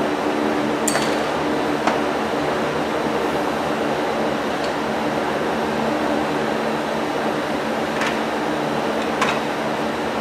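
Steady mechanical hum, like a running fan, with four short sharp clicks or knocks: two about one and two seconds in and two near the end.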